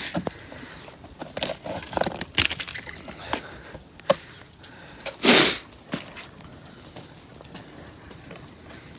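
Ice glaze from freezing rain being chipped and cracked off a car with a metal spike: irregular sharp taps and knocks, with one louder crunch about five seconds in, then fainter ticks.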